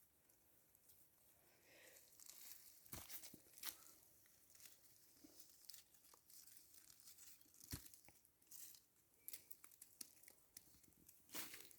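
Near silence, broken by scattered faint crackles and a few sharp clicks.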